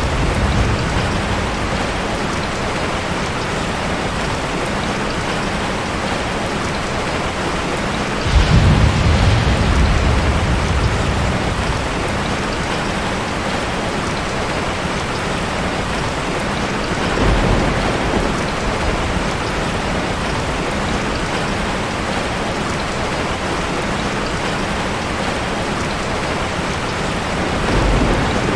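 Ocean surf: a steady wash of water with waves breaking about every nine seconds, three times, each break a sudden low rumble that fades over a few seconds; the first is the loudest.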